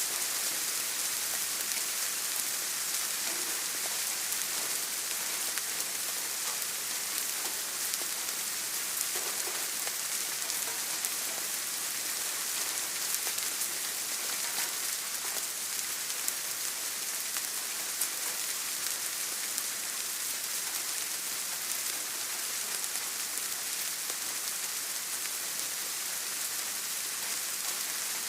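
Steady rain: a dense, even hiss with scattered single drops ticking through it.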